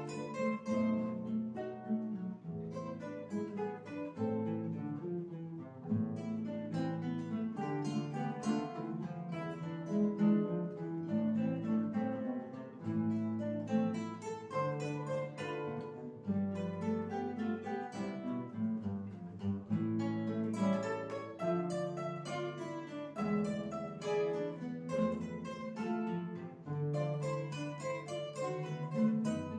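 Guitar ensemble playing: several classical guitars plucking chords and melody together over a moving bass line, steady and unhurried.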